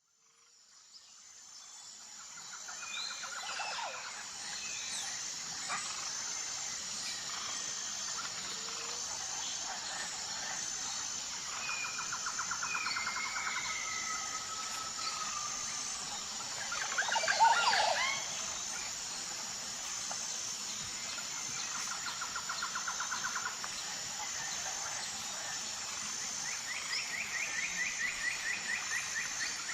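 Jungle ambience fading in: a steady high insect drone with an even pulsing chirp, over which birds call with repeated trills and whistled glides, one call louder than the rest about seventeen seconds in.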